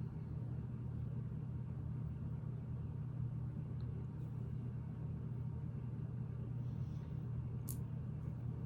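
Steady low hum, with a couple of faint sharp clicks of plastic Lego pieces being handled near the end.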